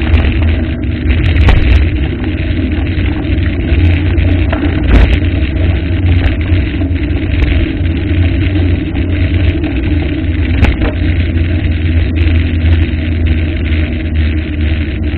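Waterfall's steady rushing water, loud and even, with a deep rumble beneath.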